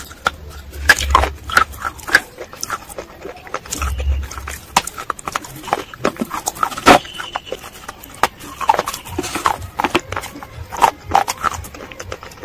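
Close-miked mouth sounds of someone biting and chewing a lump of wet clay paste: irregular sticky smacks and sharp crunches, with a low thump about a second in and another about four seconds in.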